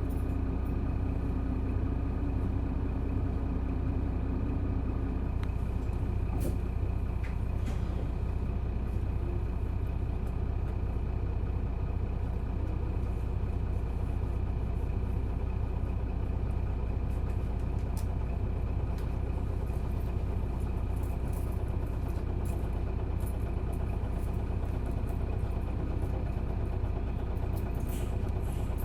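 Isuzu Erga PJ-LV234N1 city bus heard from inside the cabin, its diesel engine running with a steady low drone. A few faint clicks and rattles come through now and then.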